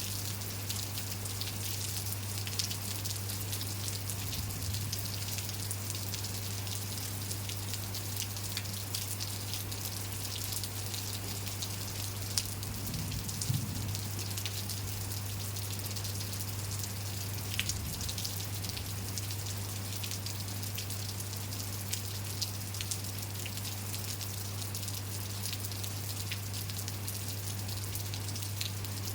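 Steady rain falling, an even hiss with many small raindrop ticks and a few heavier drops landing close by. A steady low hum runs underneath.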